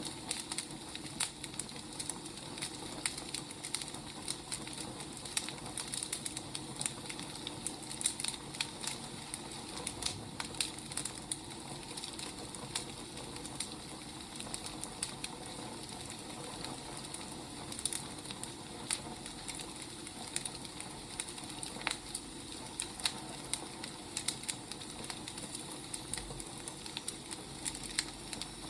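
Wood fire burning, with a steady soft hiss and frequent irregular crackles and pops from the burning logs.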